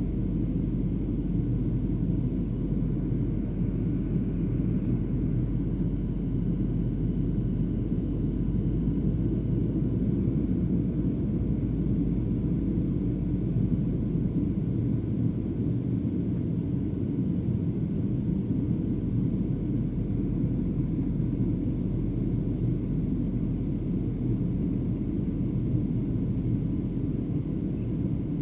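Airliner cabin noise in cruise flight during a holding turn: a steady, low rumble of the jet engines and airflow, unchanging throughout.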